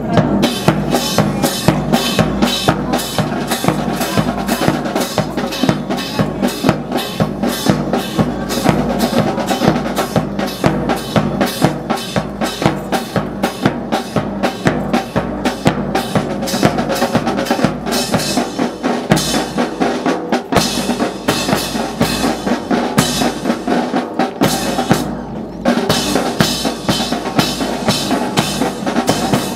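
Drum corps of snare and bass drums playing a fast, steady marching cadence, with rimshots and rolls.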